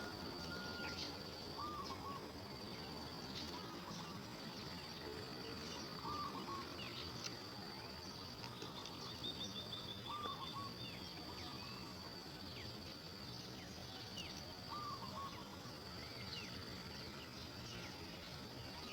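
Outdoor ambience of a steady high insect drone, with a bird giving a short, slurred call every few seconds and a brief rapid trill about nine seconds in.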